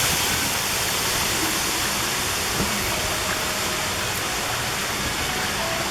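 Steady rushing noise of a boat under way across a lake, with no break or change.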